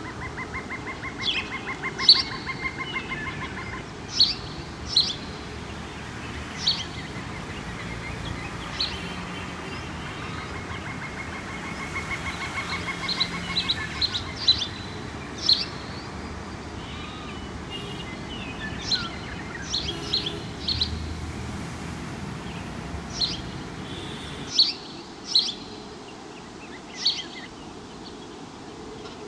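Birds chirping in a tree: short, sharp calls repeated every second or so over a steady low background hum. Twice, near the start and again around the middle, a rapid buzzing rattle runs for a few seconds.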